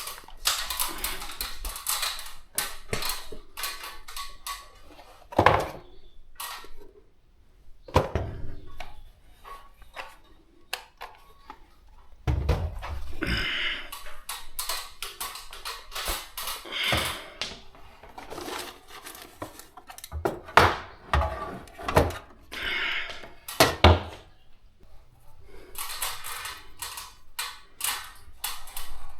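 Irregular clicks, knocks and clatter of hard objects being handled at close range, with several louder thuds.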